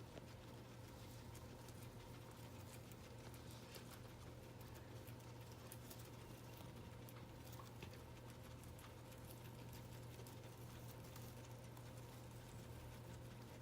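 Guinea pigs chewing hay: faint, irregular crunching clicks over a steady low hum.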